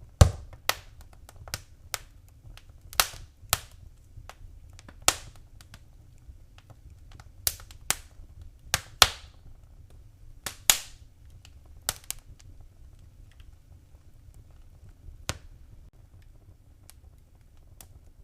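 Fireplace fire crackling: sharp, irregular pops and snaps, frequent for the first twelve seconds or so and then sparser, over a low steady rumble.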